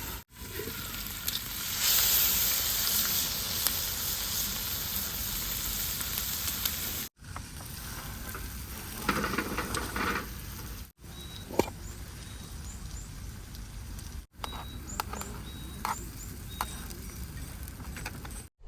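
Food sizzling and frying on a multi griddle, in several short cuts that break off suddenly. The sizzle surges louder about two seconds in, and scattered short pops and clicks come through in the later sections.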